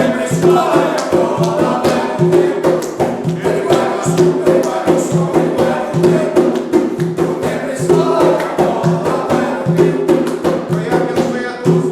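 Voices singing a devotional ritual chant together over hand percussion with a quick, steady beat.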